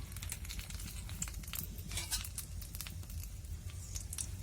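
Whole spices (cardamom, cinnamon, bay leaf) beginning to crackle in heating oil in a kadai: scattered faint pops and clicks over a low steady hum.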